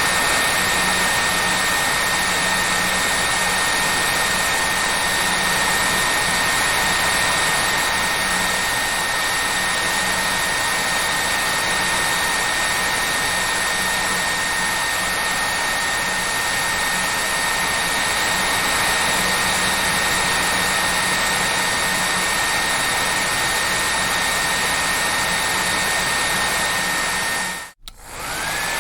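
Hair dryer running steadily: a loud, even rush of air with a high motor whine. Near the end it cuts out for a split second and comes back, the whine rising back up to pitch as the motor spins up again.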